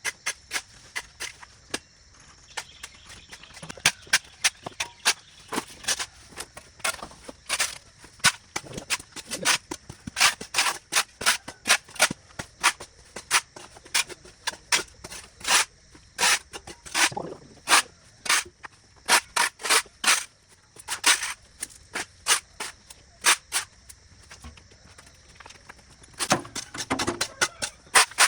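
Irregular sharp cracks and snaps, at times several a second, over a faint steady high hum.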